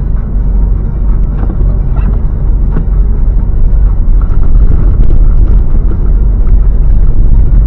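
A car driving, with a steady, loud low rumble of engine and road noise.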